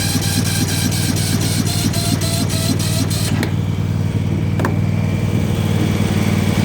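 Yard Machines riding mower's starter cranking its engine at about four turns a second on jumper cables, without it firing, and stopping after about three and a half seconds; the owner suspects a dead battery or a bad starter. Another small mower engine runs steadily underneath.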